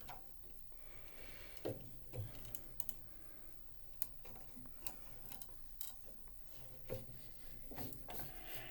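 Scattered light clicks and a few soft knocks from hands working at a spinet piano's action, tying it up with string.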